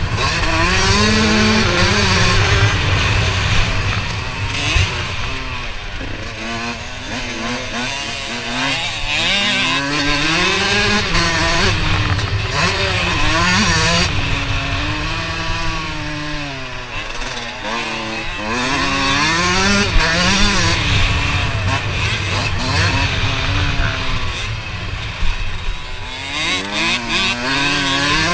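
Motocross bike engine revving hard, its pitch rising and falling again and again as the throttle is opened and closed and the bike shifts gears around the track.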